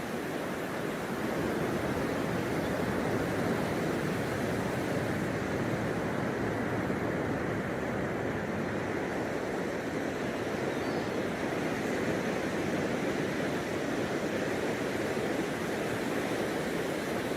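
Ocean waves breaking and washing on a beach: a steady rush of surf, a little louder from about a second in.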